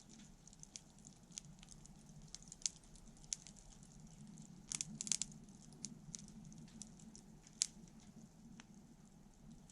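Wood campfire crackling: irregular sharp pops and snaps, with a cluster of louder ones about five seconds in and another strong pop about eight seconds in, over a faint steady low hum.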